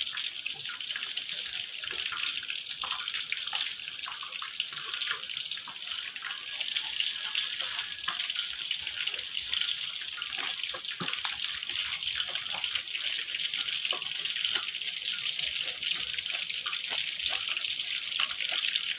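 Steady sizzling hiss of fish frying in oil, with scattered light taps and scrapes of a kitchen knife on a wooden chopping board as shallots are cut and peeled.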